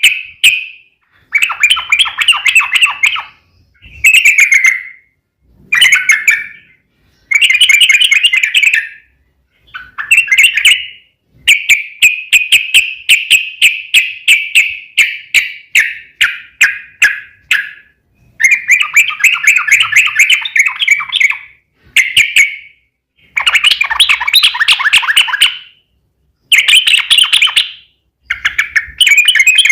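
Trucuk (yellow-vented bulbul) singing loud phrases of fast, repeated bubbling notes, one after another with short pauses between them. One longer rolling phrase runs for about six seconds near the middle. This is the long trilling song that keepers call a "ropel panjang".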